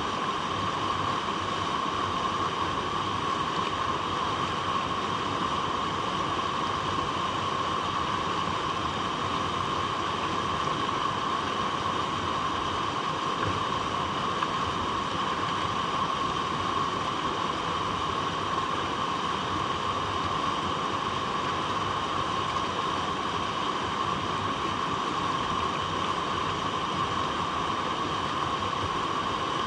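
Water flowing over rocks: a steady, even rushing that keeps the same level throughout.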